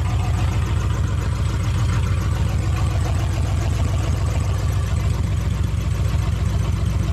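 Pickup truck engine idling with a steady, even beat. It carries a faint thud and a squeak that the owner places in the rotating assembly and suspects are failing bearings.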